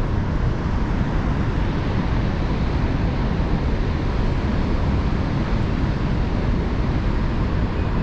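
Steady, even roar of a large waterfall's falling water, with no change and no separate sounds.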